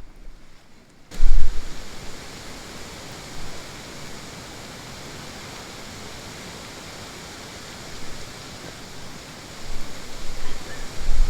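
A steady, even hiss that starts abruptly about a second in, with low rumbles at its onset and again near the end.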